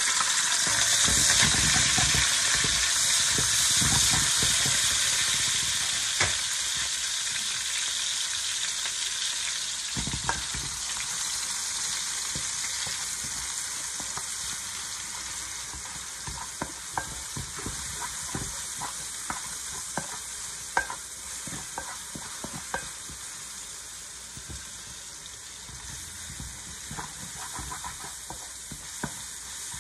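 Chopped onion, garlic and green chillies sizzling in hot oil in a metal pot, loudest just after they go in and slowly dying down. A spatula stirs them, clicking and scraping against the pot now and then from about a third of the way in.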